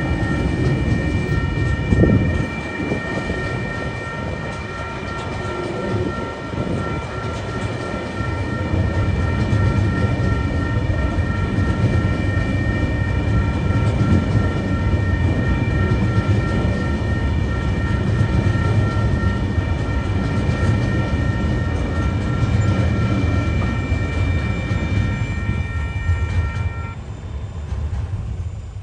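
Freight train's container wagons rolling past over a level crossing, a steady rumble of wheels on rail with a heavy clank about two seconds in. The level crossing's warning bell rings steadily over it and stops about two seconds before the end, and the rumble then fades as the last wagon clears.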